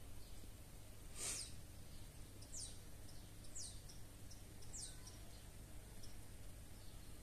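Three short, high chirps that fall in pitch, about one a second, from a small bird, over a low steady hum; a single brief scratchy sound comes about a second in.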